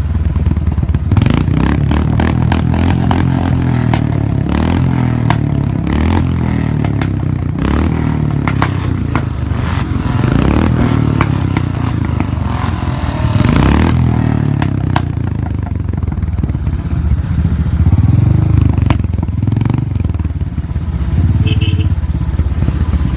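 Motorcycle engine running under way, its pitch rising and falling with the throttle. Frequent clattering knocks come through in roughly the first fifteen seconds.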